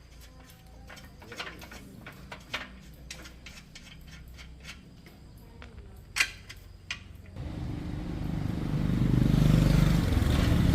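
Scattered clicks and knocks of hand tools working on metal. About seven seconds in, a motor starts running with a steady low hum and grows louder over the next two seconds.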